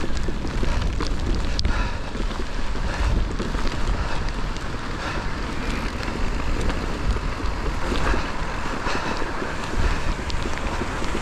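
Wind buffeting an action camera's microphone during a mountain-bike descent, with steady trail and tyre noise and many scattered sharp clicks and rattles from the bike on rough ground.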